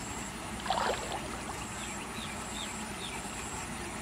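Small birds calling over steady outdoor background noise: one short louder call just under a second in, then a few faint, short descending chirps a second or two later.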